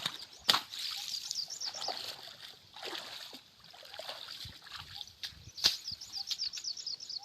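Water splashing and sloshing, with two sharp splashes, one about half a second in and one near the end, and two runs of rapid, high chirping calls.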